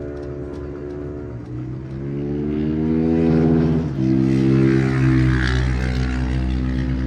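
Motorcycle engine accelerating: its pitch rises for a couple of seconds, drops suddenly at a gear change about four seconds in, then holds steady.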